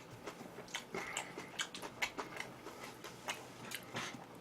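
Close-miked eating sounds: irregular wet clicks and smacks of chewing, a couple a second.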